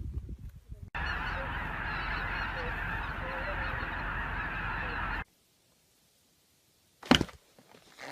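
A flock of birds calling all at once in a dense, steady chorus for about four seconds, then cutting off suddenly. A brief burst of sound follows near the end.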